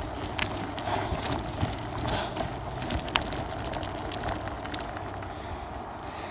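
A bicycle being ridden, heard from a phone taped to the front of the bike: steady rolling rumble with frequent irregular rattling clicks and knocks from the bike and its makeshift mount.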